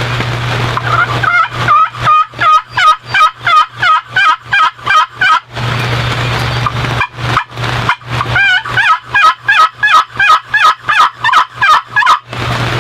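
Turkey yelping: two long, even runs of loud, rapid yelps, about four a second, with a short pause between them.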